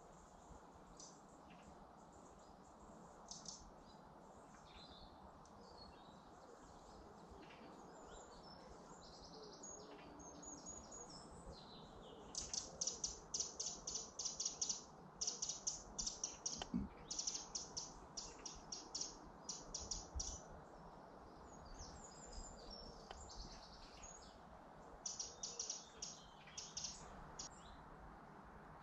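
Small songbirds chirping in woodland: quick runs of high chirps, a long run through the middle and a shorter one near the end, over a faint steady background hiss.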